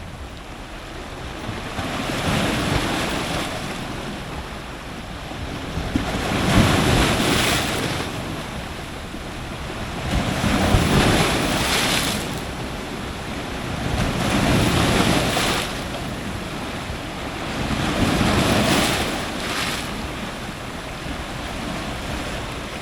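Ocean surf breaking on rocks, heard close up: five waves in turn, about four seconds apart, each swelling to a rush of water and ebbing back into a steady hiss.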